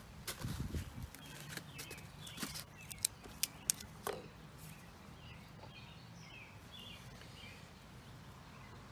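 Sharp clicks and rustles of hand-crafting work on sticks, tape and foil in the first four seconds, then faint bird chirps.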